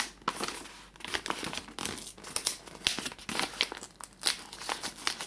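Paper bag being loosened and opened out by hand: irregular crinkling and crackling of stiff paper.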